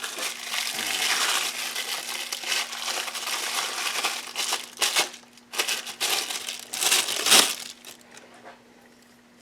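Crinkling, rustling handling noise, with a few short louder bursts over the middle, then it dies down to quiet near the end.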